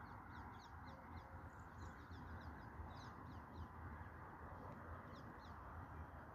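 Birds chirping in many short, quick, descending high notes over a steady low background rumble.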